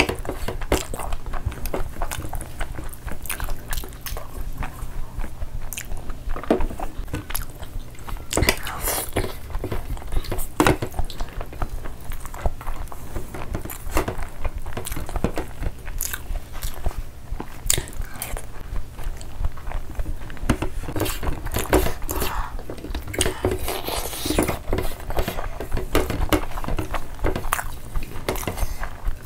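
Close-miked chewing and wet lip-smacking of two people eating rice and spicy curry with their hands. The many sharp, irregular clicks come thickly and unevenly throughout.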